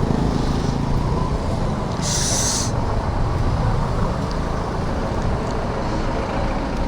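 Roadside traffic with vehicle engines running steadily, and one short, sharp hiss of released air about two seconds in.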